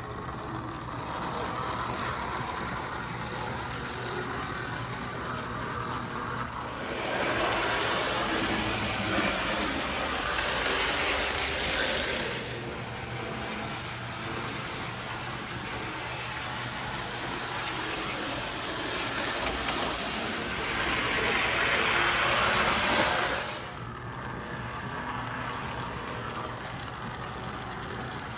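AMT Budd RDC model train car running around the track: a steady electric-motor hum with wheels rattling on the rails. It gets louder twice, for several seconds each, a third and three quarters of the way through, as it passes close by.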